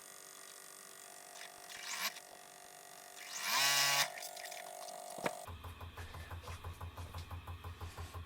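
Sewing machine starts about five and a half seconds in and runs steadily, stitching at about six stitches a second as a quarter-inch seam is re-sewn. Before that there is a low steady hum, a short louder pitched sound and a click.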